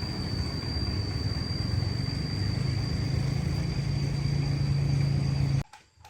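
Concrete mixer running with a steady mechanical drone, a thin high whine over a low hum that settles after a couple of seconds, cutting off abruptly near the end.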